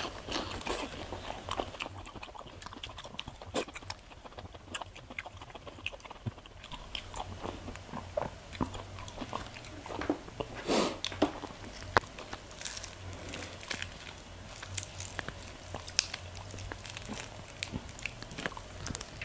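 A person biting and chewing crispy chicharon bulaklak, deep-fried pork mesentery, close to the microphone: irregular crisp crunches and wet chewing, with a louder run of bites about eleven seconds in.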